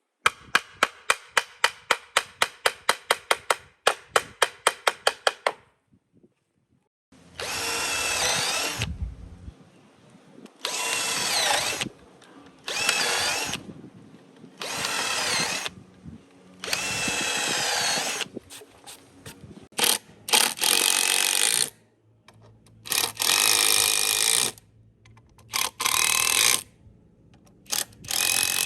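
A rapid run of sharp clicks, about four a second, for about five seconds. Then a power tool runs in repeated short bursts of a second or two each, its pitch wavering within each burst.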